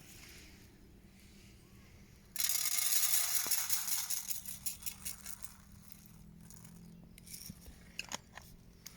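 Wild bird seed being poured out: a sudden dense rattle of seeds starting a couple of seconds in, thinning out into scattered ticks of falling seed.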